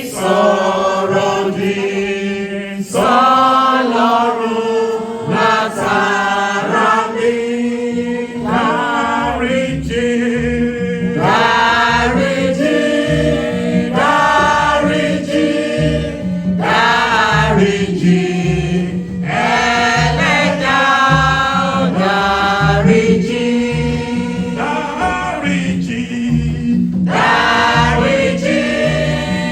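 Church choir singing a gospel song with a steady low beat underneath.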